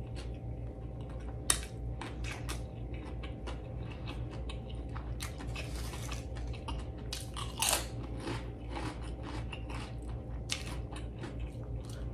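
Close-miked chewing with frequent crisp crunches: a person eating ridged potato chips. Underneath is a steady low hum.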